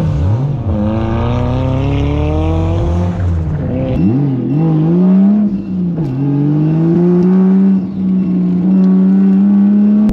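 Toyota JZX110 Mark II's 1JZ-GTE turbocharged straight-six being revved hard while drifting, its pitch climbing and dropping again and again as the throttle is worked.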